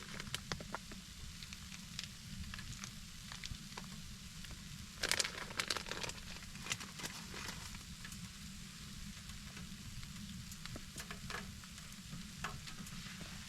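Food sizzling in a skillet on a wood stove, a steady frying hiss with a cluster of sharp clicks and scrapes about five to seven seconds in.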